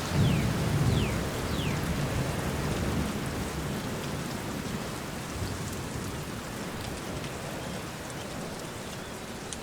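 Steady rain falling, with a low rumble of thunder that is loudest in the first second or two and then slowly dies away. Three short falling chirps sound over the rain in the first two seconds.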